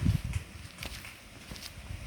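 Footsteps of a person walking on an outdoor path, a few soft steps with low rumbles on the microphone, strongest in the first half second.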